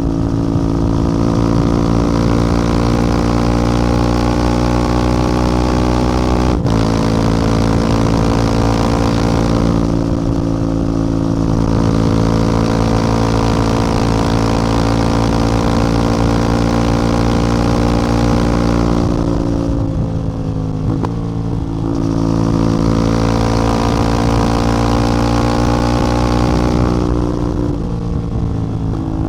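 CF Moto 450MT's parallel-twin engine and exhaust under way, holding a fairly steady pitch. It eases off briefly a couple of times, and the pitch dips and shifts about two-thirds through. There is a single sharp click about six seconds in.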